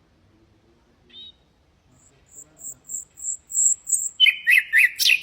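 Nightingale singing. After a pause and a short chirp, it delivers a phrase of high, thin repeated notes, about three a second, growing louder. Near the end this breaks into a rapid run of loud, lower, clipped notes.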